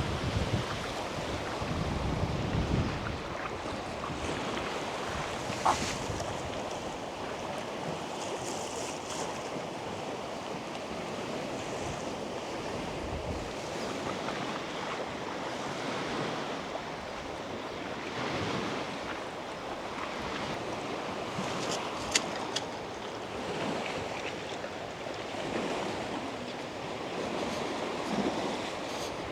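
Small lake waves lapping against the shore in swells, with wind buffeting the microphone, heaviest in the first few seconds. A couple of brief sharp clicks come through, one near the start and one past the middle.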